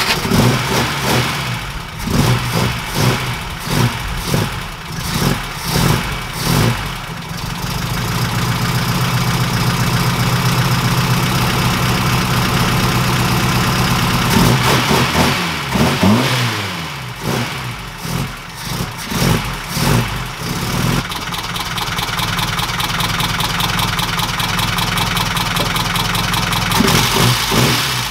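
Ford Pinto four-cylinder engine in a 1969 Ford Capri running just after a restart, with its valve clearances freshly adjusted to cure a rattle: it is blipped repeatedly, held at raised revs for several seconds, drops back with a falling pitch, settles to idle and is blipped again near the end.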